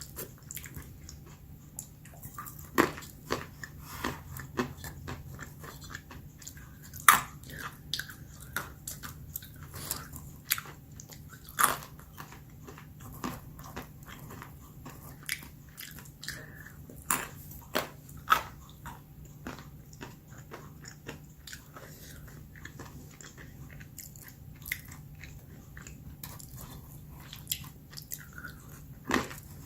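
Almonds being bitten and chewed close to the microphone: a run of irregular sharp crunches and cracks, some much louder than others.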